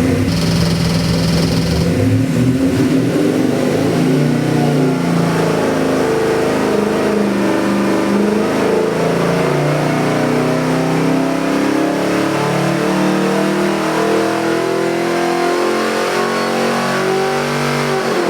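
Carbureted 408 cu in stroker Chrysler 360 small-block V8 with a mechanical roller cam running under load on an engine dynamometer. It holds steady for about two seconds, then climbs slowly in rpm through most of the pull and drops back near the end.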